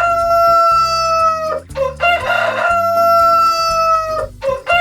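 Rooster crowing cock-a-doodle-doo over and over, a crow about every two and a half seconds, each ending in a long held note that drops slightly as it fades.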